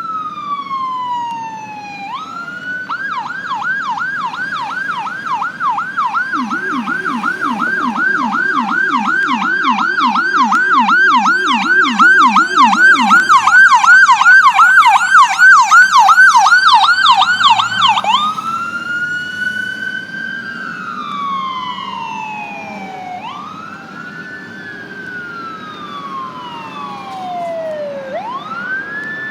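Electronic sirens of a fire engine and an ambulance responding to a call. A wail sweeps down, then switches to a rapid yelp for about sixteen seconds, with a deep low yelp underneath for several seconds in the middle. The sirens are loudest as they pass, then go back to a slow rising and falling wail.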